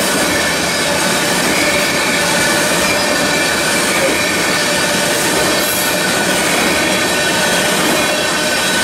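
Freight train of covered hopper cars rolling past at close range: a steady, loud rumble and rattle of steel wheels on rail, with faint high squealing from the wheels.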